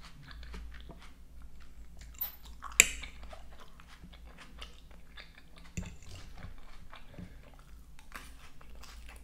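Close-up chewing and biting of a crunchy salad of iceberg lettuce, cucumber, trout and avocado, with many small wet clicks. A fork clinks sharply against the plate about three seconds in.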